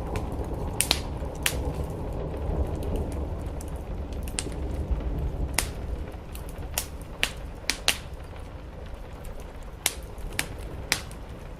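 Wood fire crackling, with about a dozen sharp pops at irregular intervals, over a steady low rumble and hiss of rain on the roof.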